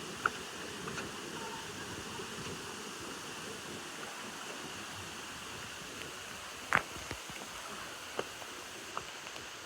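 Steady rush of flowing water from a spring-fed stream or pool outlet. A few short sharp sounds break through it, the loudest about two-thirds of the way in.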